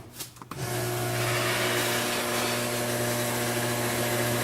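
A steady machine-like hum with hiss, unchanging, after a brief drop-out in the first half-second.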